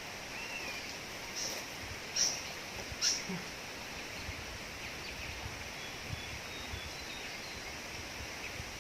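Steady outdoor background noise with three short, sharp high-pitched chirps between about one and a half and three seconds in, and a few faint thin high notes near the middle.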